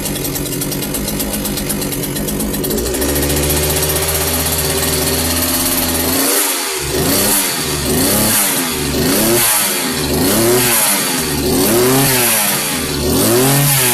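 Petrol strimmer's two-stroke engine running just after a cold start. It runs steadily, then settles to a lower note about three seconds in. From about halfway it swings up and down in pitch roughly once a second.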